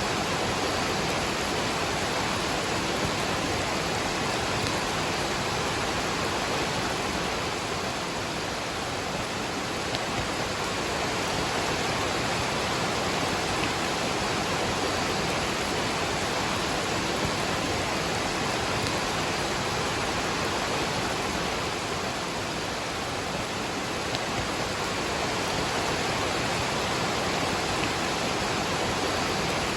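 A waterfall and rain together: a steady, even rush of falling water.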